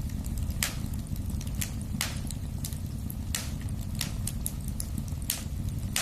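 Fire in a fireplace crackling: irregular sharp pops and snaps, a few louder than the rest, over a steady low rumble.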